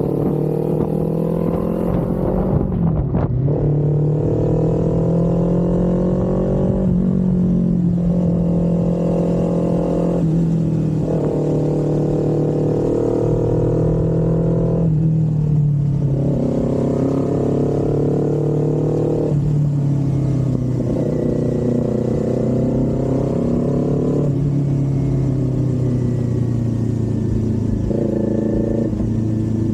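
Kawasaki Z400's parallel-twin engine running under way, its note dropping and picking up again every few seconds as the throttle is worked.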